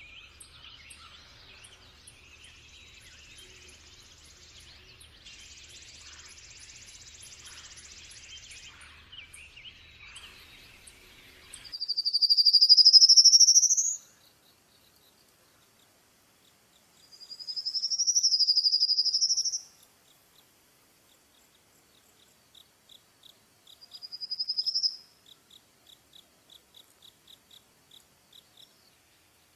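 Birds singing: a busy mix of chirps and twitters over a low hum, then after an abrupt cut, loud clear whistled notes that sweep upward, one of them rising and falling twice, repeated a few times with a run of soft, quick ticking chirps between them.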